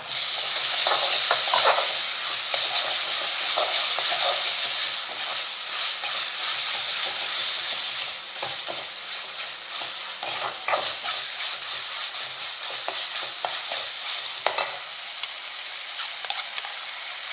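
Ginger-garlic paste frying with sautéed onion and tomato in sesame oil in a kadai, sizzling steadily while being stirred, with irregular scrapes of the spoon against the pan. The sizzle is loudest in the first couple of seconds, just after the paste goes in.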